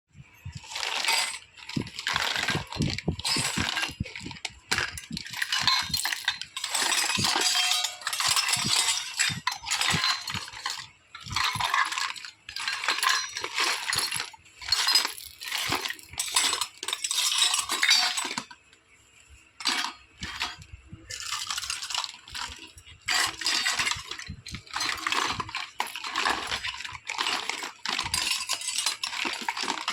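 Small plastic toy kitchen pieces clicking, clinking and rattling as they are handled and unpacked, in quick irregular bursts, with a brief lull a little past halfway.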